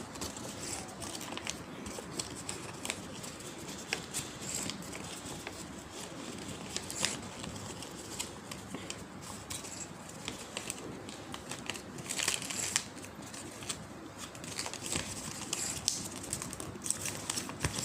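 A sheet of paper being folded and creased by hand: steady rustling and crinkling with scattered sharp crackles, a little louder twice in the middle.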